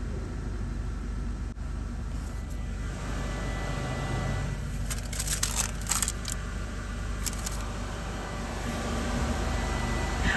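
A car engine idling steadily, heard from inside the cabin, with short bursts of hissing around five and seven seconds in.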